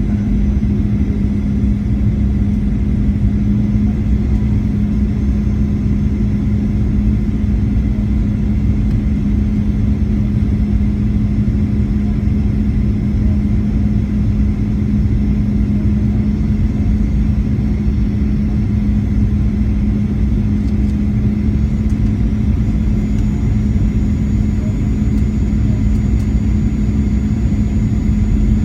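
Steady cabin noise of a Boeing 737-800 in flight: engine and airflow rumble with a constant low hum, unchanging throughout.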